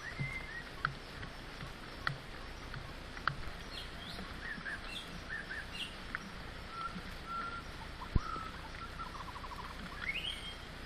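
Forest birds chirping and whistling in short calls, with a quick trill and a rising call near the end, over a steady background hiss. A few sharp clicks are mixed in, the loudest about eight seconds in.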